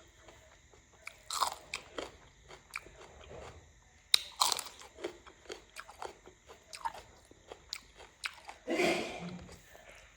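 Close-up mukbang eating sounds: a person chewing and biting food, with small mouth clicks and a few louder bites.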